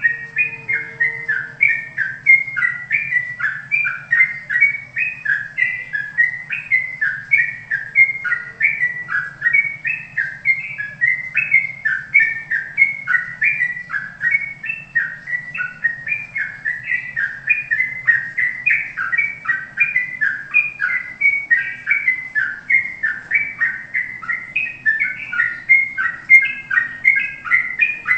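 A songbird singing a fast, unbroken run of short chirping, whistled notes, about three or four a second, over a faint steady low hum.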